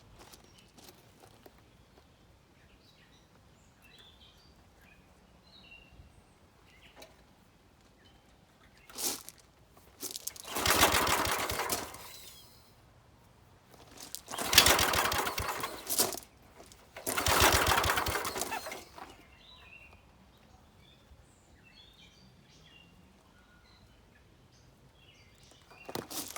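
Small gas engine on an air compressor being pull-started three times, each time turning over and running for about two seconds before dying out.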